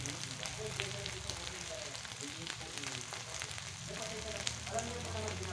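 Embutido shallow-frying in oil in a pan: a steady sizzle with frequent small pops and crackles of spitting oil.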